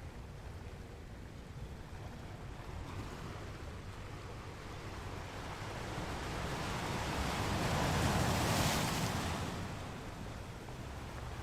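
Ocean surf: a wave rolls in and breaks, a rush of water that builds over several seconds, peaks about eight seconds in, then fades back into a steady low rumble of surf.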